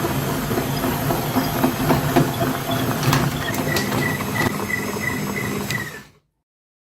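A small motor running steadily with scattered clicks and rattles. About halfway through, a rapid run of high beeps, several a second, joins it, and then everything cuts off suddenly.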